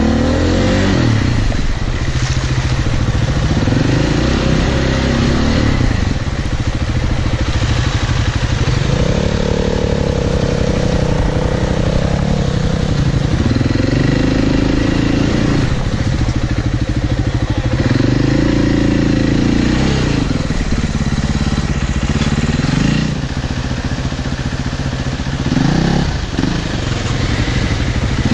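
Enduro motorcycle engine heard from on the bike, revving up and falling back again and again as it picks its way up a rocky creek bed. A steady wash of water and gravel noise from the tyres runs under it.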